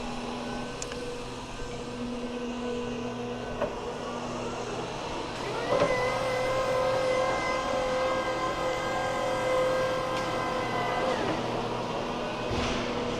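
A motor-driven machine or engine running steadily. About six seconds in it speeds up with a rising tone, holds a higher, louder note for about five seconds, then drops back.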